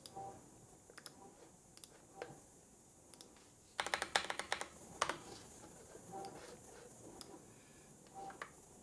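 Typing on a computer keyboard: scattered single keystrokes, with a quick run of about ten keys about four seconds in.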